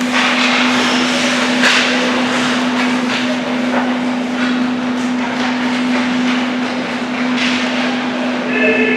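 Ice hockey game on a rink: skates scraping and sticks and puck clacking, with a few sharp knocks, over a steady hum.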